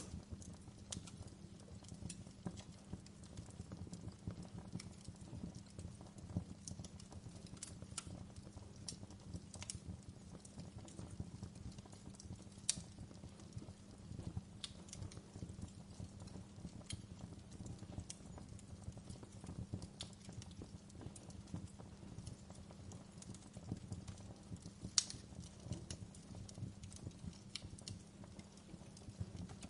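Wood fire crackling in a fireplace: a steady low rumble of burning with irregular sharp pops and snaps, two louder snaps a little before halfway and late on.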